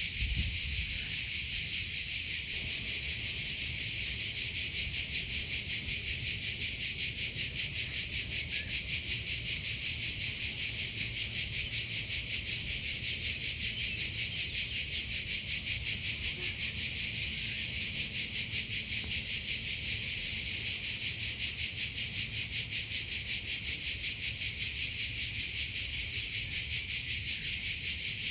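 Cricket chirping steadily: a continuous, high-pitched, rapidly pulsing trill that keeps an even rhythm without pause.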